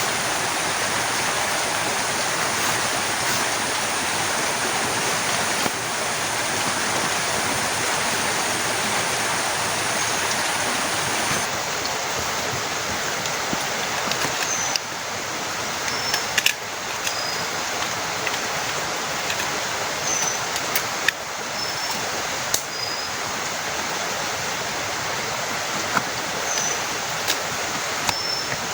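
Heavy rain falling steadily, a dense even hiss, with scattered sharp taps of drops and a few short high chirps in the second half.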